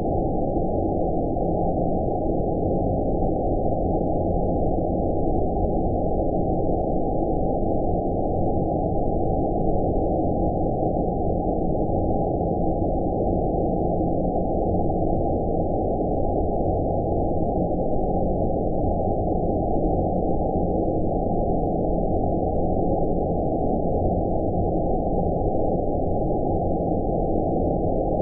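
Steady low rumbling noise with everything above about 1 kHz cut off, like a deep, muffled hum with no events or changes: synthetic 'space' ambience made for sleep.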